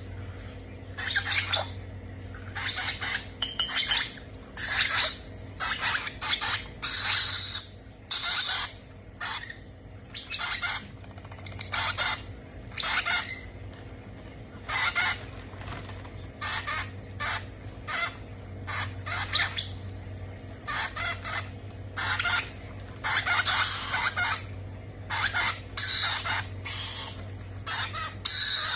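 Baby parrot chicks giving repeated harsh begging calls, typical of chicks being hand-fed, one or two calls a second with short gaps between.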